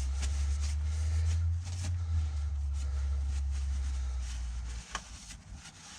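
Faint rubbing and scuffing as a rag wipes an engine's connecting-rod bearing clean, over a steady low rumble that cuts off suddenly about five seconds in.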